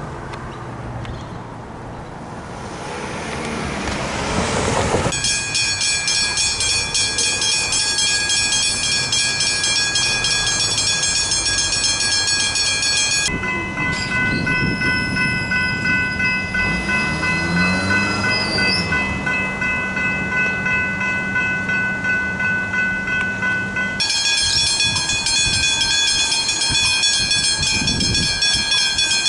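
Level crossing warning bells ringing with a rapid, even repeat of several high tones, over the rumble of a train approaching and passing. The bell sound switches abruptly to a different, steadier set of tones a little before halfway, then back again near the end.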